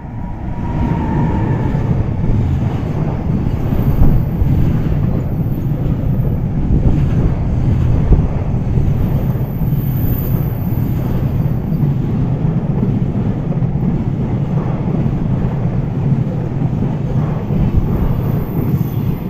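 Container freight train hauled by a JR Freight EF210 electric locomotive passing through a station at speed without stopping: a steady, loud rumble and clatter of the wagons' wheels on the rails as the long line of container wagons goes by.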